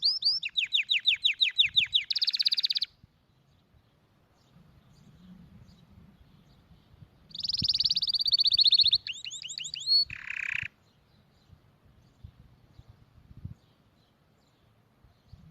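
Domestic canary singing, in two phrases about four seconds apart. Each phrase is a run of quickly repeated high notes, some sweeping downward and some rolled into a fast buzzy trill. The second phrase ends on a lower buzzy note.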